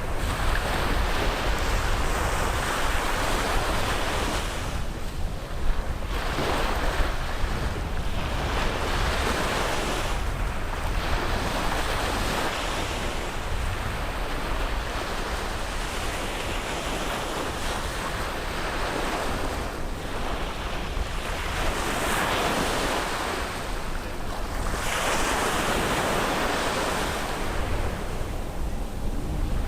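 Sea waves breaking and washing up on a beach, rising and falling in surges every four to five seconds, over a steady low rumble of wind on the microphone.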